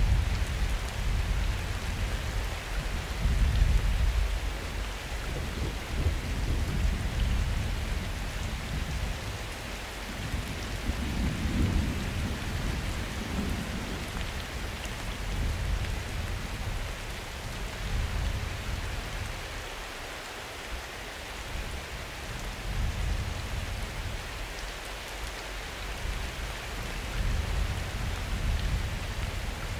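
Summer thunderstorm: steady rain with low thunder rumbling on and off underneath. The rumble is strongest in the first few seconds and eases off about two-thirds of the way through.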